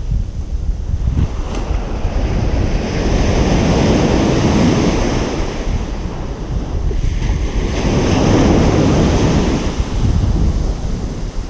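Ocean surf washing onto a beach, two waves swelling and subsiding in turn, with a steady low rumble of wind on the microphone.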